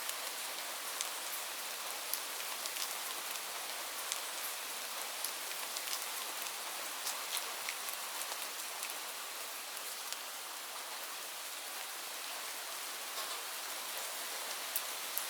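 Steady rainfall: an even hiss of rain with frequent sharp drops pattering on a surface.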